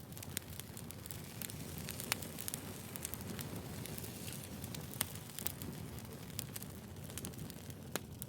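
Burning firewood crackling, with irregular sharp pops over a steady low rumble of flames. The loudest pops come about two, five and eight seconds in.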